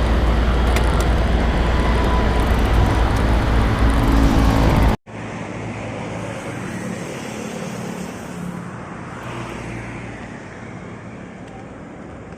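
Loud wind rushing over the microphone while riding, heavy in the low end. It cuts off abruptly about five seconds in, giving way to a much quieter, steady road and traffic sound that slowly fades.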